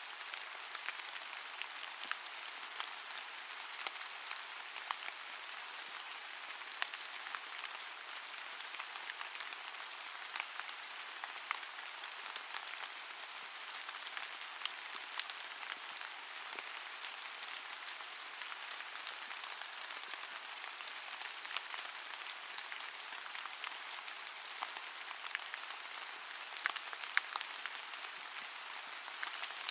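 Steady rain falling on a surface, a continuous hiss with many small scattered drop ticks.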